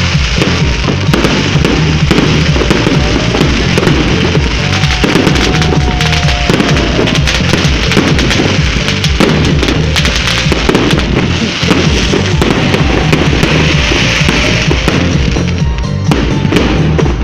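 Fireworks salute going off densely, a continuous rapid crackle and popping of many small bursts, with music playing along at the same loud level.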